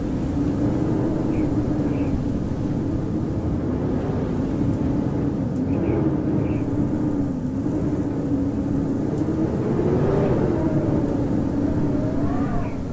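Howling wind: a steady low rush with a thin moaning tone that wavers up and down in pitch, climbing higher near the end.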